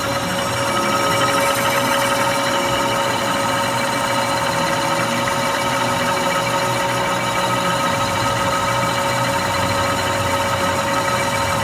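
Metalworking machine tool running steadily, a constant mechanical hum with a steady whine, in a drilling and boring job.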